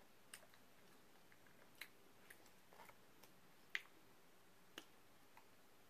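Mostly near silence broken by about six faint mouth clicks and smacks from a person chewing food, the loudest a little under four seconds in.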